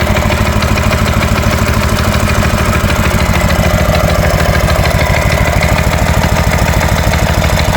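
Predator 212 single-cylinder four-stroke engine on a Baja Warrior mini bike idling steadily through a custom exhaust, with an even, regular beat.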